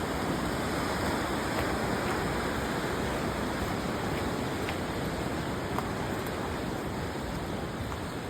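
The Cheakamus River rushing past in a steady, even wash of flowing water, with a few faint clicks.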